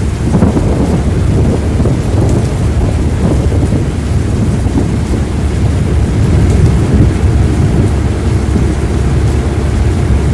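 Thunderstorm: a loud, continuous low rumble of thunder with the hiss of rain.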